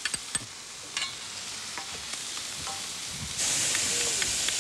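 Sliced onions frying with spices in a pan, sizzling, with a few light utensil clicks near the start. About three and a half seconds in, the sizzle turns louder and brighter.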